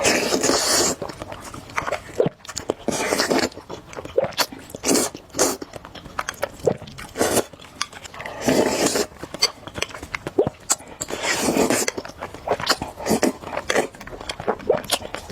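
Close-up eating: chewing and biting food with many short wet mouth clicks, and a few longer, louder noisy stretches of chewing.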